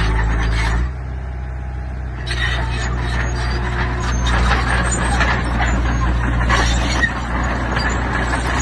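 Diesel engine of heavy construction machinery running steadily, its note shifting about a second in. From about two seconds in, irregular rattling and clanking joins it, with a sharp knock near the end.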